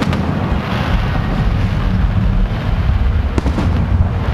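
Aerial firework shells bursting overhead: a continuous low rumble of booms, with a couple of sharp cracks about three and a half seconds in.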